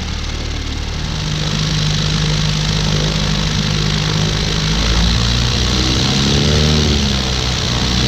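Corby Starlet light aircraft's propeller engine running, with a steady rush of air. The engine note rises and gets louder about a second in, then shifts pitch about five seconds in.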